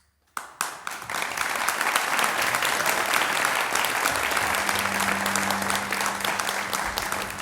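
Audience applauding at the end of an aria: a few first claps just after the music stops, then full, steady applause within about a second.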